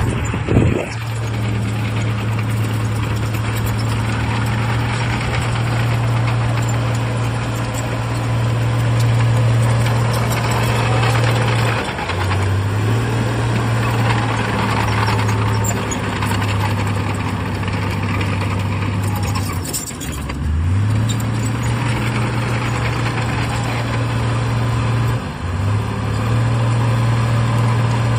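Heavy earthmoving machine's diesel engine running hard with a steady low drone over constant mechanical noise, its speed dipping briefly and picking back up three times, as when the load changes.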